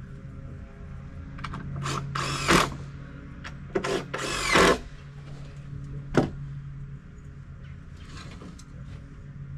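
Power drill or driver running in two short bursts, about two seconds in and again around four seconds, driving screws into deck framing lumber. A few light knocks and a steady low hum sound underneath.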